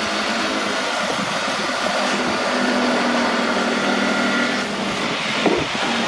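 A motor running steadily, with a single knock about five and a half seconds in.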